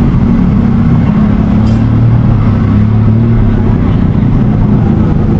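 An engine running loudly and steadily, a low drone whose pitch shifts slightly.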